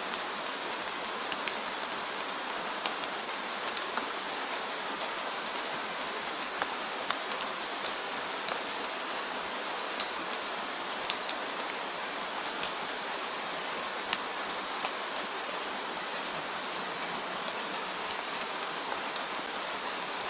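Steady rain falling, a constant hiss with scattered, distinct drops ticking on a surface.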